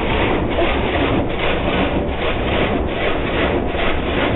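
Automatic car wash brushes scrubbing over a van, heard from inside the cabin: a loud, continuous rubbing and swishing with a regular beat of about two to three sweeps a second.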